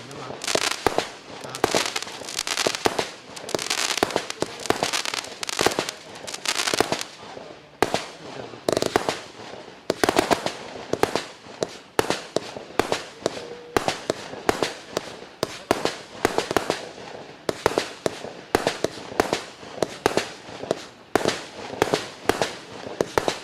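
Compact multi-shot fireworks cake firing: a rapid string of sharp bangs with crackling in between. The shots come in a dense rush over the first several seconds, then several separate bangs a second.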